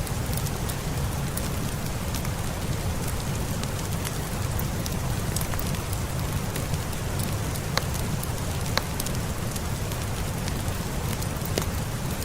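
Steady rain with a deep low rumble and scattered sharp ticks and crackles throughout, the sharp ones fitting a crackling log fire.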